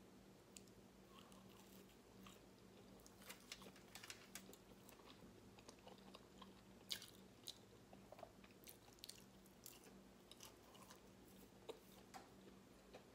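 Faint close-up chewing of a vegan chicken nugget, with soft crunches and small wet mouth clicks at irregular moments.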